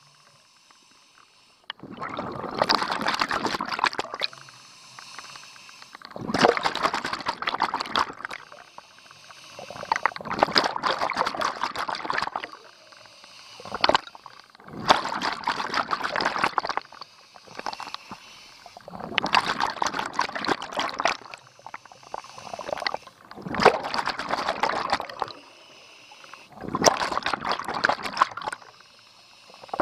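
Scuba diver's exhaled bubbles gurgling out of the regulator underwater, a burst of about two seconds roughly every four seconds, in the steady rhythm of breathing, with quieter stretches between breaths.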